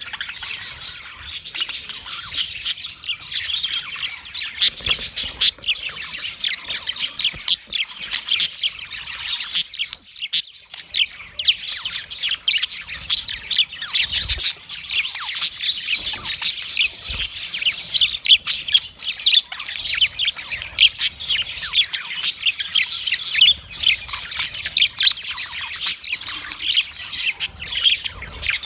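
Budgerigars chattering: a continuous run of rapid chirps and squawks, the male's courtship chatter.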